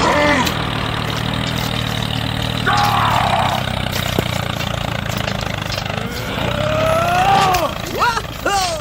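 A small tractor engine runs steadily at an even pitch. About three seconds in there is a brief voice-like burst, and near the end come a few rising, whooping pitched calls.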